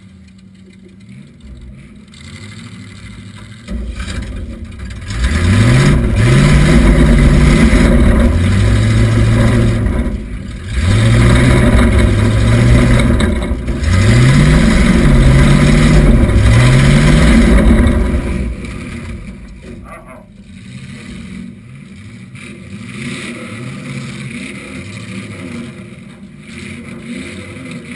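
1976 Oldsmobile Cutlass Supreme demolition derby car's engine, heard from inside the car, revving hard in repeated rising and falling sweeps for about fourteen seconds, then dropping back to a lower, quieter running sound.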